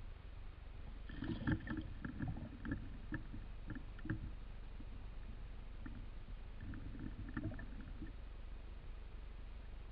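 Water knocking and lapping against a small boat over a steady low rumble, with two runs of quick knocks, one about a second in and one about six and a half seconds in.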